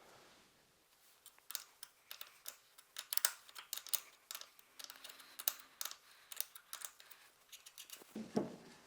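Faint, irregular metallic clicks and taps of a 13 mm wrench fitted to and turning an air rifle's barrel to loosen it.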